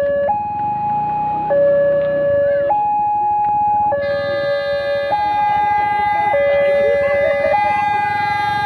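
Railway level crossing warning alarm sounding, a loud electronic two-tone signal alternating high and low about every 1.2 seconds: the crossing is warning of an approaching train.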